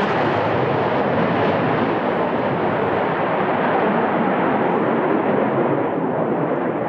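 Saab JAS 39 Gripen fighter's turbofan jet engine at takeoff power as the jet climbs away after lift-off, a loud steady roar. The highest part of the roar thins slightly near the end.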